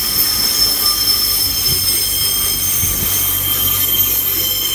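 Class 143 and Class 142 Pacer diesel railbuses passing close by, their wheels squealing in steady high tones over a low rumble.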